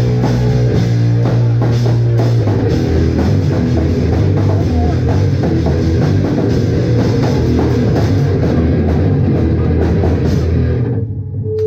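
Live rock band playing loud, with a full drum kit and distorted guitar. About eleven seconds in, the drums and cymbals stop and a low held chord is left ringing.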